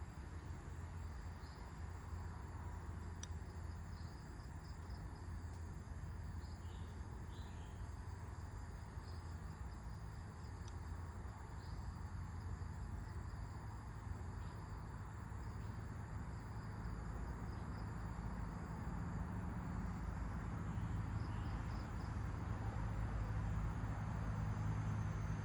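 Outdoor nature ambience: steady wind with a low rumble that grows louder toward the end, scattered short bird chirps, and a faint, steady, high-pitched hum.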